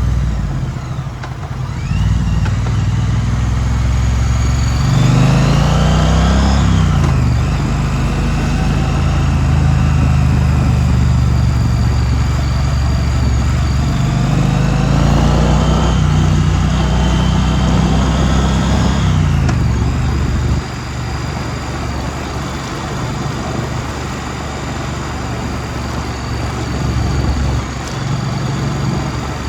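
2016 Triumph Street Twin's parallel-twin engine running under way, its note rising and falling twice, then settling to a steady, lower and quieter run about two-thirds of the way in.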